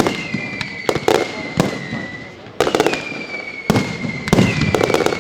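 Fireworks display: repeated sharp bangs and quick bursts of crackling, over long whistles that slowly fall in pitch. A new whistle starts near the beginning, about two and a half seconds in, and again near the end.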